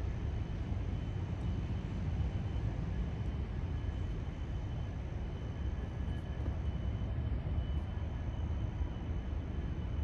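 Steady low rumbling outdoor background noise with no distinct events, with two faint steady high tones over it.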